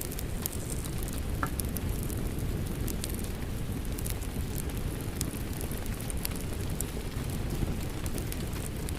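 Fireplace crackling with scattered sharp pops over a steady rumbling wash of rain.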